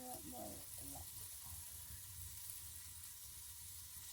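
Food frying in hot oil in a pan, a steady fine sizzle.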